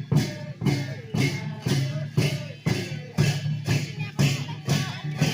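Sakela festival music: a dhol drum beating an even rhythm about twice a second, with jhyamta cymbal clashes on the beats and a faint melody or voice running between them.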